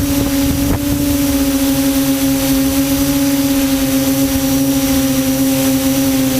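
QAV400 quadcopter's motors and propellers humming at a steady pitch, heard from the onboard camera, with wind buffeting the microphone.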